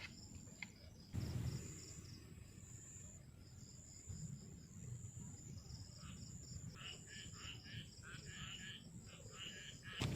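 Insects chirping: a steady high trill and a rapid pulsed chirp, joined in the second half by a louder, rhythmic run of lower chirps. A low thump about a second in.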